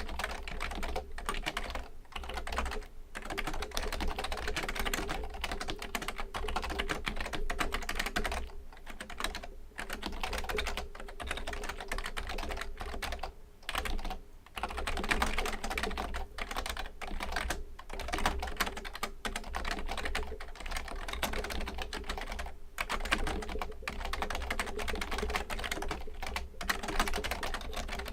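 Fast, continuous typing on a Fujitsu Component Libertouch, a premium membrane keyboard, its keys clicking in a dense stream with a few brief pauses.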